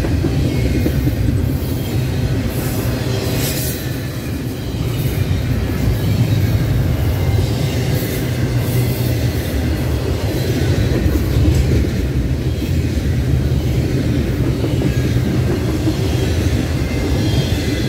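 Double-stack container well cars of a freight train rolling past close by: a steady, loud low rumble of steel wheels on rail.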